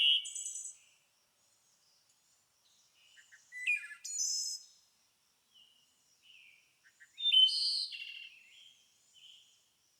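Songbirds singing: three loud song phrases, one at the start, one about four seconds in and one about seven seconds in. Each phrase is a quick run of high notes and buzzy trills, with fainter chirping between them.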